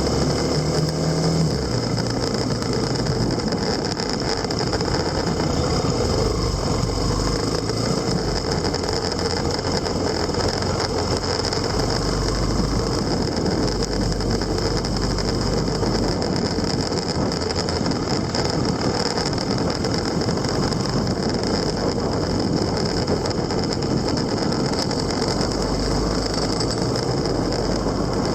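Motor vehicle on the move, heard from on board: a steady engine drone with road and wind noise, its low pitch shifting a little now and then.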